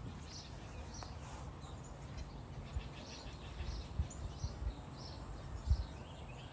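Birds chirping in short, high calls over a low outdoor rumble, with two brief thumps, the louder one near the end.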